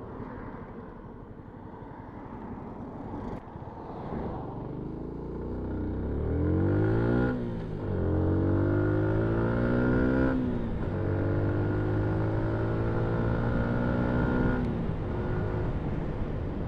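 Yamaha MT-125's single-cylinder four-stroke engine pulling away and accelerating: quiet at first, then its pitch rises and drops with each upshift, twice in quick succession, before settling at a steadier cruising pitch with another change near the end.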